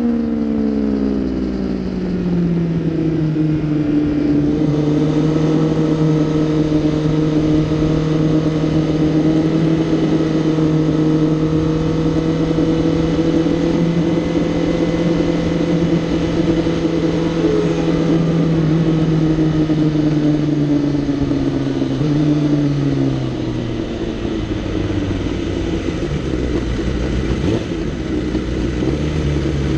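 Kawasaki ZX10R inline-four heard from on board, revs falling as the throttle is rolled off, then running at steady, moderate revs over wind noise. The revs drop again about three quarters of the way through, then settle.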